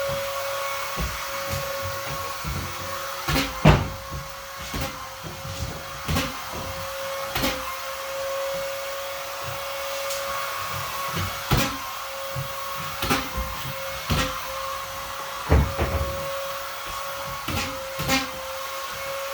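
Vacuum cleaner running with a steady whine over a hiss, with irregular knocks and bumps every second or so, the loudest about four seconds in and again near sixteen seconds.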